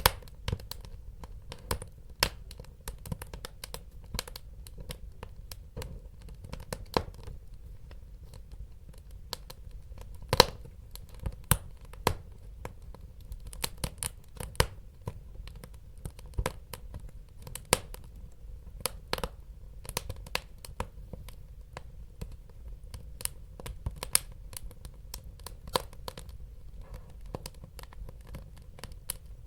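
Wood fire crackling in a fireplace: irregular sharp pops and snaps, a few louder ones, over a steady low rumble of burning.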